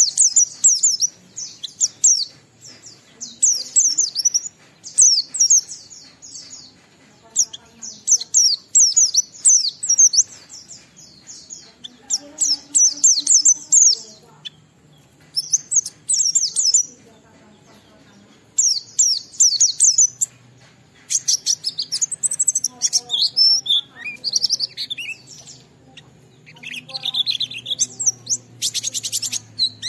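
White-eye (pleci) singing a rapid, high-pitched chattering song in repeated bouts of one to two seconds with short pauses, with a buzzier trill near the end.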